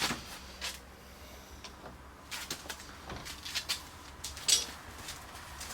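Irregular light knocks and clicks of metal parts and hand tools being handled, with the sharpest knock about four and a half seconds in.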